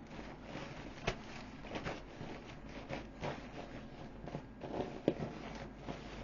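Irregular rustling, scraping and crinkling of the vinyl of an inflatable boat being handled, with scattered ticks and a couple of slightly louder knocks, about a second in and about five seconds in.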